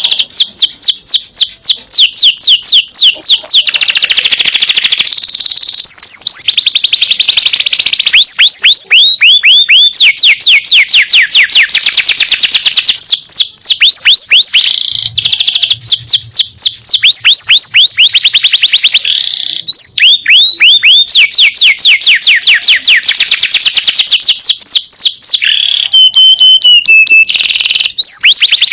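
Yellow domestic canary singing: long, rapid trills of high whistled notes repeated many times a second, switching from one trill to another every few seconds.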